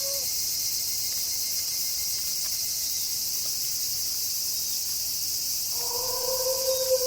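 Steady high chirring of night insects, crickets by their sound, throughout. A wolf howl trails off, dropping in pitch, right at the start, and a new long, level wolf howl begins about six seconds in.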